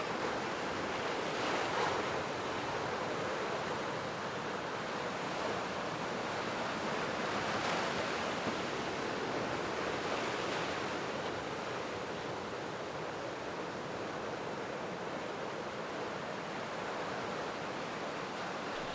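Ocean surf: a steady wash of breaking waves that swells up a few times.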